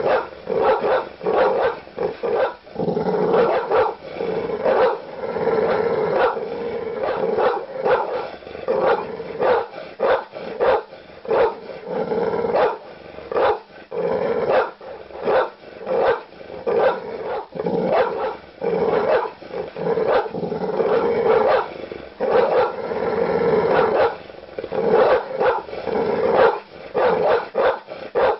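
Large dog barking aggressively in a rapid, near-continuous run of deep barks, several a second, with no pauses.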